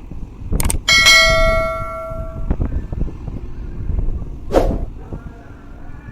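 A single bell-like metallic ring about a second in, fading away over about a second and a half. Sharp knocks come just before it and again later, over a steady low rumble.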